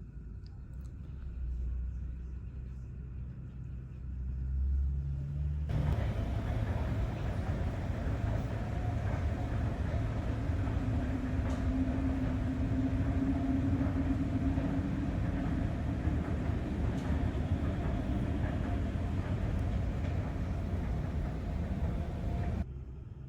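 Jet airliner engines running loud and steady, a wide rushing noise with a held humming tone, coming in suddenly about six seconds in after a low rumble and cutting off just before the end.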